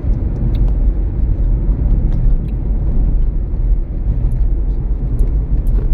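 Steady low road rumble inside the cabin of a moving 2007 Toyota Prius, with a few faint ticks over it.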